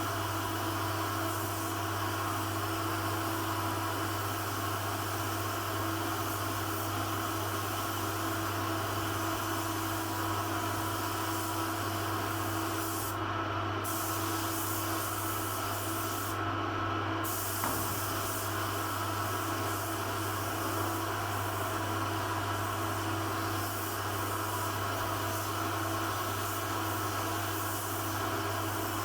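Compressed-air paint spray gun hissing steadily over a steady mechanical hum. The hiss breaks off briefly twice around the middle, as the trigger is let go.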